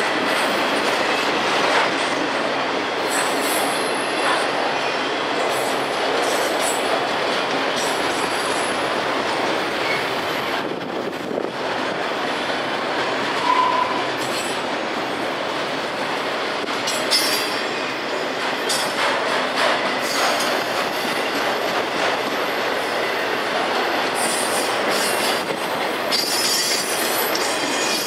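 CSX freight train's autorack cars rolling past on the rails: a steady rumble of steel wheels on track, with high-pitched wheel squeal coming and going several times.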